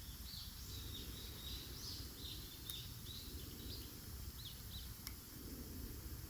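A small bird singing a quick run of high chirping notes for about four seconds, over a steady low rumble, with a couple of sharp crackles from the wood fire.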